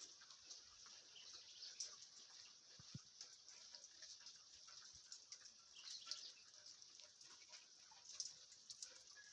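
Light rain falling: a faint, steady hiss with many small drops ticking irregularly.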